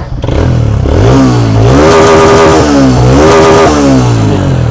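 TVS Radeon BS6 motorcycle's single-cylinder engine running and revved twice, its pitch rising and falling each time. The mechanic diagnoses piston noise from inside this engine.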